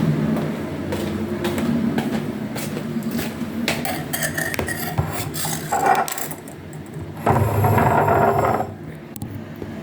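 Scattered clicks and scrapes of objects being handled, over a low steady hum, with a louder stretch of rustling and handling noise about seven seconds in.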